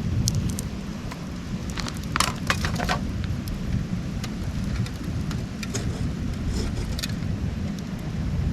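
Wood campfire crackling, with scattered sharp pops and a quick cluster of them about two to three seconds in, over a steady low rumble.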